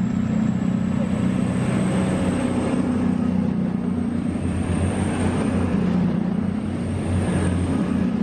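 Diesel engines of a five-car Avanti Class 221 Voyager train, a steady low drone with a faint high whine above it.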